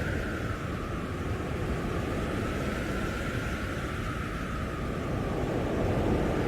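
Storm-force blizzard wind howling and rumbling steadily, with a whistling tone that sinks slightly in pitch in the first second and a small swell near the end.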